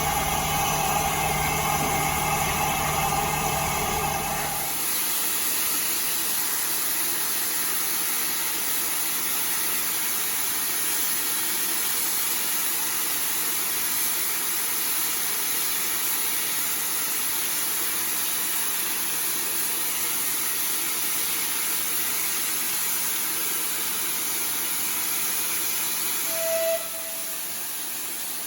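Steam locomotive No. 131's whistle sounding for about the first five seconds and cutting off, then a steady hiss of steam as the engine pulls out, with a brief short tone near the end.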